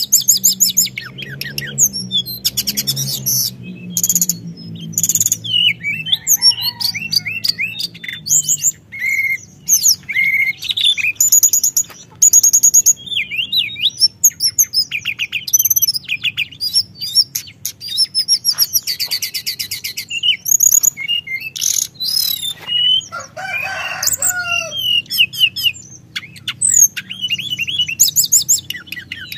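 Teledekan gunung songbird singing a long, rapid song of varied trills and chirps with only brief pauses, the continuous rolling song bird keepers call 'gacor ngeroll'.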